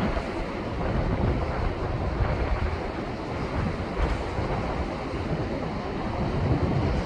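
Rough ocean surf surging and breaking against shore rocks, a heavy swell left by a passing typhoon. It is a continuous, dense wash with a deep uneven rumble, and wind buffets the microphone.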